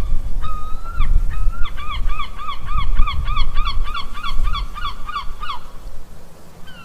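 Goose honking: a few longer honks, then a quick run of short honks about four a second that stops near the end, over a low rumble.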